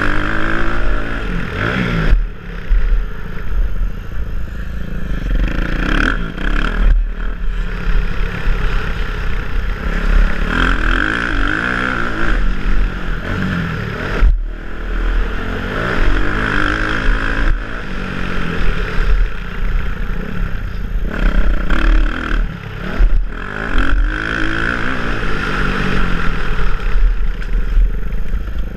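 Motocross bike's engine, heard from the rider's helmet, revving up and down over and over as it is ridden hard around a dirt track, with the throttle cut sharply for a moment every several seconds.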